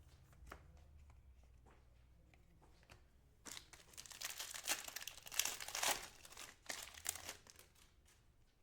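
A foil trading-card pack being torn open and its wrapper crinkled, in a run of crackling bursts from about three and a half seconds in to about seven and a half, after a few faint clicks of cards being handled.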